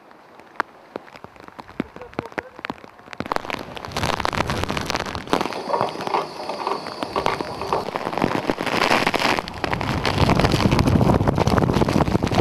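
Typhoon rain: scattered single drops ticking close by at first, then a dense, steady downpour from about four seconds in that grows louder near the end.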